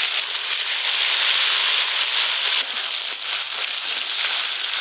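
Ginger and cumin paste sizzling in hot mustard oil in a metal kadai as the spice base is fried and stirred with a spatula. The sizzle is a loud, steady hiss with a light crackle.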